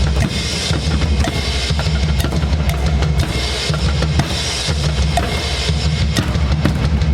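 Drum kit playing a steady beat, with bass drum, snare and cymbals.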